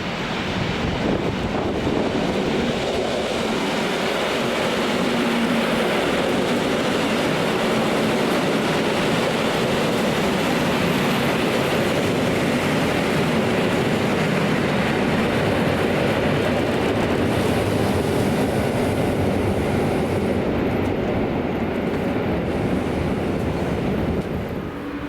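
Train running on rails: a steady, loud rolling noise that builds over the first two seconds and eases slightly near the end.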